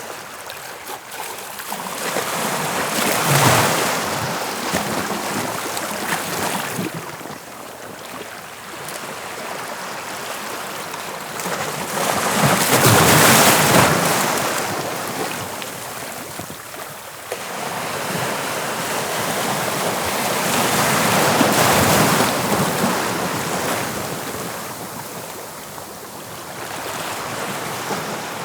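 Surf of the English Channel breaking on the shore and washing back, a continuous rush that swells to a loud crash about three times: a few seconds in, around the middle and about two-thirds through.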